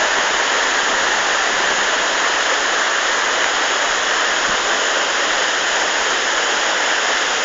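Loud, steady roar of a waterfall and river in full spate after heavy rain, a continuous even rush of water.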